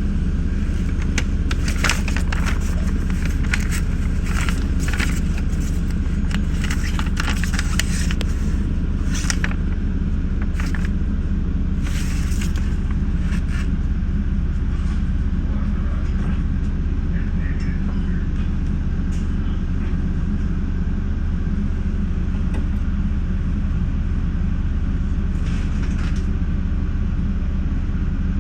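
Steady low rumble and drone heard from inside a Metra bi-level commuter cab car. Scattered sharp clicks and crackles come through the first half and grow sparse after that.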